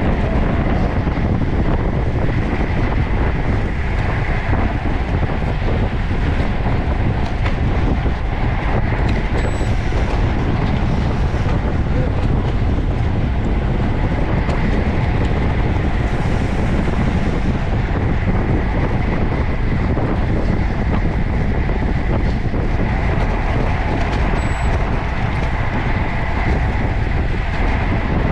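Steady rush of wind on the microphone and road noise from a moving road bicycle, unbroken throughout.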